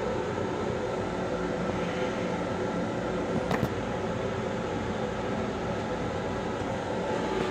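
Steady hum and rumble inside the restroom of an MTA Long Island Rail Road M7 electric railcar, with one short click about three and a half seconds in.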